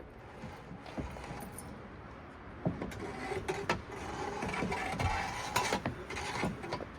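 Ceiling fan being broken apart: irregular clanks, knocks and rattles over a steady mechanical noise, busiest and loudest in the middle seconds.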